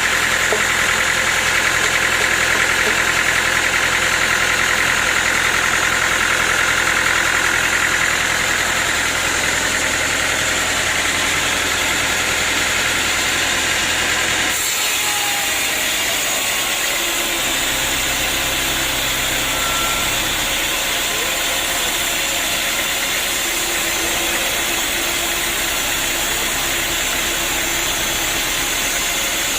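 Sawmill machinery running steadily, a continuous loud mechanical din; its tone changes abruptly about halfway through.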